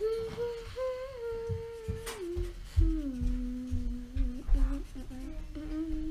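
Someone humming a slow tune in long held notes, the pitch stepping down after about two seconds, with a sharp click about two seconds in and soft low bumps beneath.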